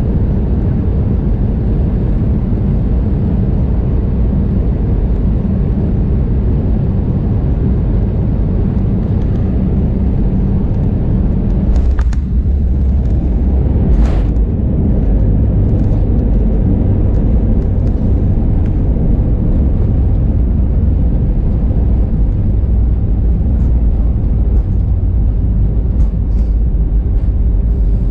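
Airbus A320-232 cabin noise: a steady loud low rumble of the IAE V2500 engines and airflow. A knock about twelve seconds in is followed by a heavier low rumble, as on touchdown and the landing roll.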